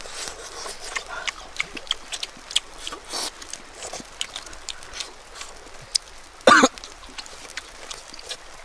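Mouth noises of people eating cooked fish by hand: scattered small smacks and clicks of chewing and lip-smacking. About six and a half seconds in there is one short, loud vocal sound, like a cough or grunt.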